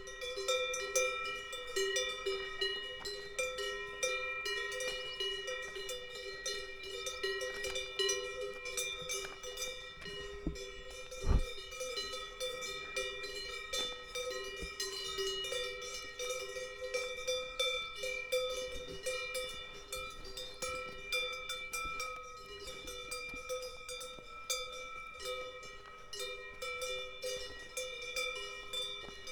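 Bells on grazing cows ringing continuously, several bells of different pitches clanging unevenly as the cows move. A single dull thump about eleven seconds in.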